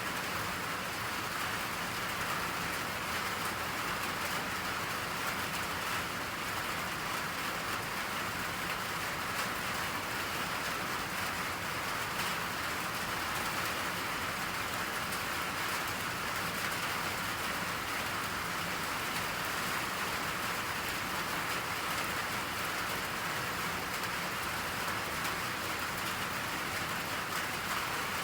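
Steady rain falling: an even hiss with a fine patter of drops that does not let up.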